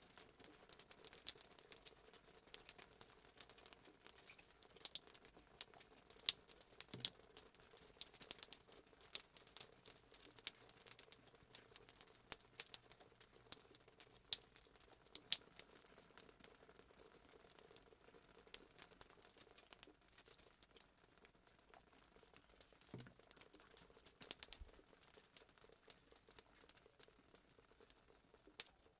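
Fireplace sound effect: a wood fire crackling quietly, with many small irregular pops and snaps.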